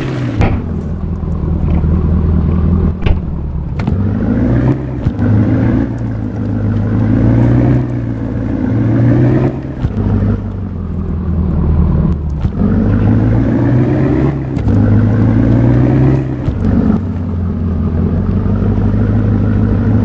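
Truck engine revving up and easing off again and again in rising pulls of a few seconds each, straining as the truck tries to pull free from deep dust it is stuck in. A few sharp knocks sound over it.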